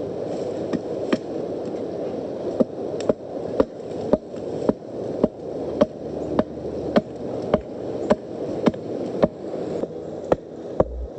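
Sharpened wooden stake being driven into the ground with a chunk of lighter knot (resinous pine fatwood) used as a mallet: about twenty sharp knocks, roughly two a second, at an even pace.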